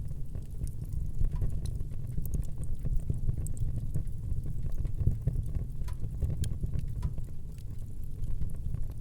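Fire burning in a fireplace, crackling: a steady low rumble of the flames with frequent small, sharp pops scattered irregularly throughout.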